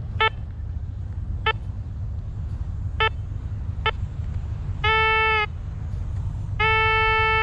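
Metal detector signalling a target with beeps of one mid pitch: several short blips and two held tones of about half a second and nearly a second. A low steady rumble runs underneath.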